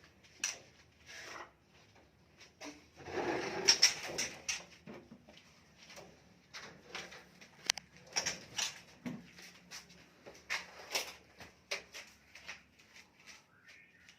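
Handling noises from taking chicks out of a nest box: a string of short knocks and rustles, with a longer scraping rustle about three seconds in.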